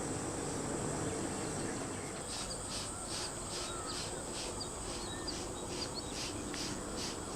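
Insects calling: a steady high-pitched whine, joined from about two seconds in by a pulsing call that repeats a little over twice a second. A few short, faint bird chirps and low outdoor rumble lie beneath.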